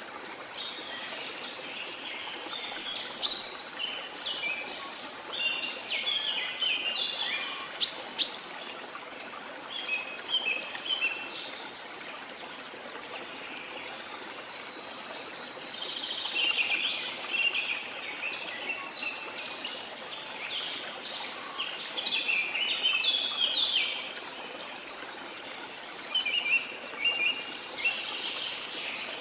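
Birds singing in clusters of quick chirps and trills, with a brief lull midway, over a steady rush of running water.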